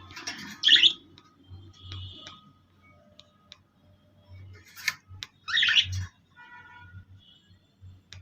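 Kept birds chirping, with two loud harsh squawks, one about a second in and another near six seconds.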